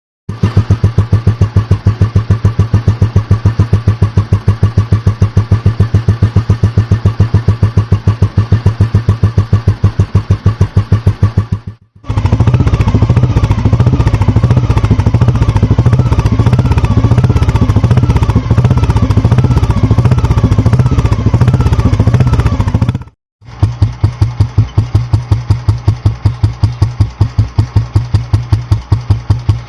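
Old Royal Enfield G2 Bullet 350 cc single-cylinder four-stroke engines idling with the typical even thump, in three clips of different bikes cut together. The middle clip runs with a faster, busier beat than the first and last.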